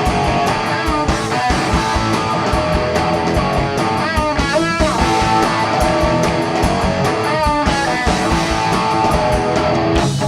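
Live rock band playing an instrumental stretch between vocal lines: electric guitars strumming over a fast, steady drum beat.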